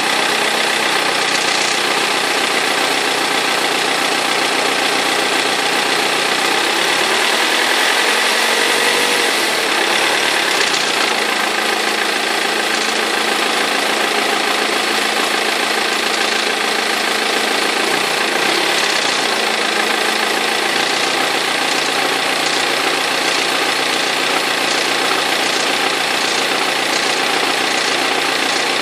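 2003 BMW E46 320d's four-cylinder diesel engine running, knocking and rattling from a perished crankshaft pulley / vibration damper. The pitch shifts briefly about a third of the way in and again a little past halfway.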